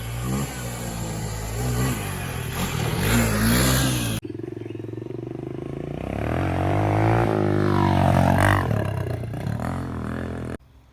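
Small off-road motorcycle engine running and revving in two clips joined by a cut about four seconds in; in the second clip the revs rise sharply and fall back, and it cuts off suddenly just before the end.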